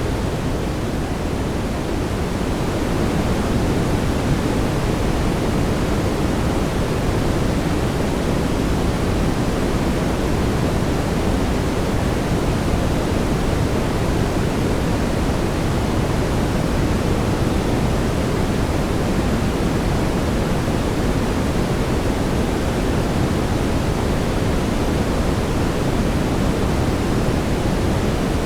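Steady brown noise: an even, deep hiss weighted toward the low end, with no tones or breaks.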